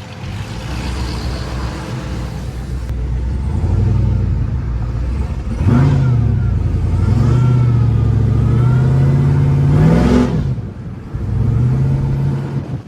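Cammed 6.0 L LS2 V8 of a Chevrolet Trailblazer SS running and being revved. Its pitch rises around 4 s, jumps about 6 s in and holds, climbs to a peak near 10 s, then falls back to a lower steady running note. A faint whine rises and falls with the revs.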